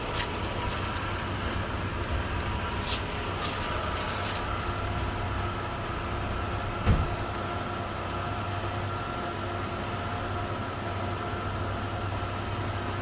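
Steady low hum, with a few sharp clicks in the first few seconds and one dull thump about seven seconds in.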